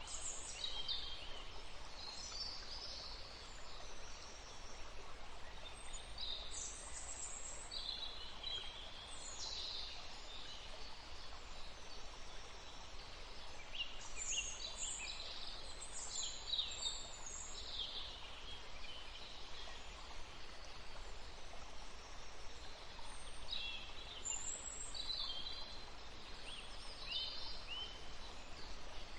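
Small birds chirping in scattered bursts of high, quick notes over a steady background hiss, with a lull of a few seconds past the middle.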